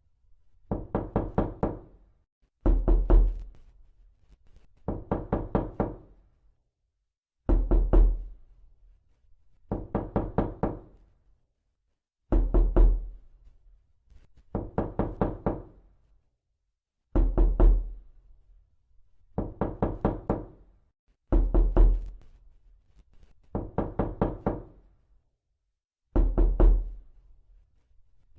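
Repeated knocking in quick rapping groups of about five knocks, a new group roughly every two seconds. The groups alternate between a heavier rap with a deep thud and a lighter one, and each knock has a short resonant ring.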